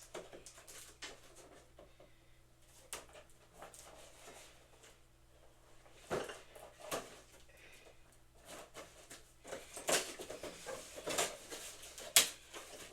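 Handling noises from unpacking boxing equipment: scattered rustles, clicks and knocks, busier in the second half, with one sharp knock near the end.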